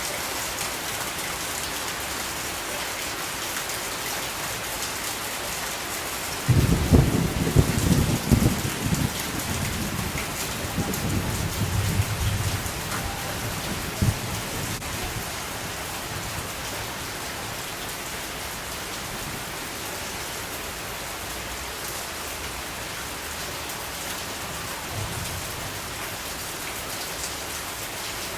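Steady rain falling, with a roll of thunder that breaks in about six seconds in and rumbles low for several seconds before fading away.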